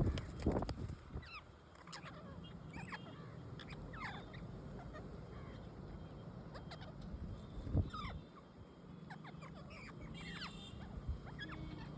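Pet parrots calling with many short, downward-sliding chirps and squawks scattered throughout. Two low thumps stand out, one just after the start and one about eight seconds in, over a steady low hum.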